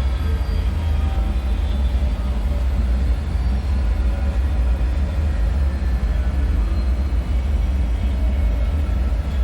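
Steady deep rumble, a dark ambient drone, with faint scattered tones above it.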